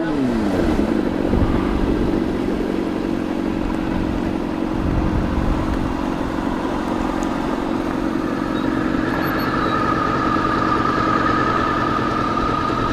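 Honda CBR600RR inline-four engine falling in pitch as the bike slows at the start, then running at a steady pitch with wind rumble on the helmet microphone. A higher steady whine joins about eight seconds in.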